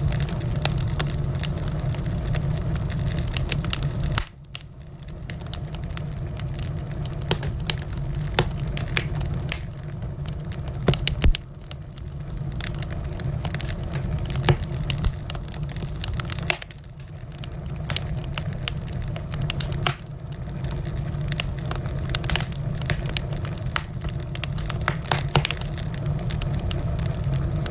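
Wood fire in a fireplace crackling: irregular sharp pops and snaps over a low steady rumble of the flames, with a louder pop about eleven seconds in.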